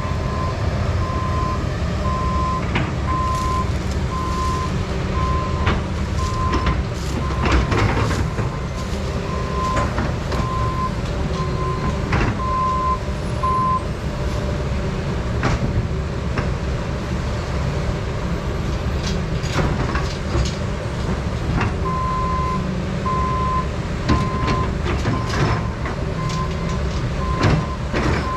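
Heavy diesel machinery running steadily: a Doosan 350 excavator working a truck-loading job, with a backup alarm beeping about once a second for roughly the first half and again for the last few seconds. Scattered sharp clanks and knocks from the work sound over the engine.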